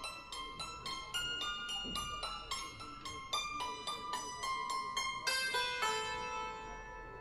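Santoor played with hammers in a quick run of struck, ringing notes, ending on a final note about six seconds in that is left to ring and die away.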